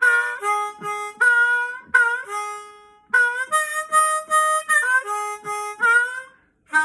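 Harmonica playing a short solo phrase of separate notes and chords, with some notes sliding up into pitch. There is a brief break about three seconds in.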